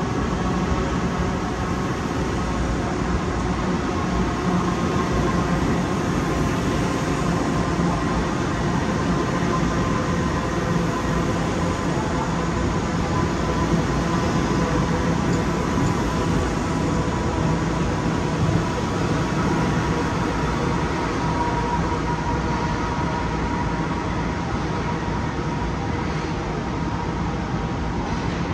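Long Island Rail Road electric multiple-unit train running through the station: a steady rumble with a faint steady high tone.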